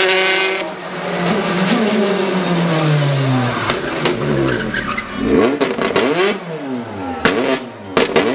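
Rally car engine at high revs, its note falling over the first few seconds, then revving up and down again. Several sharp cracks come in the second half.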